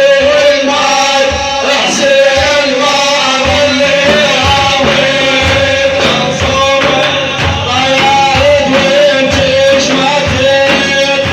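Male voices singing a devotional song in praise of the Prophet (manqaba), with a long held note and steady drum beats under it.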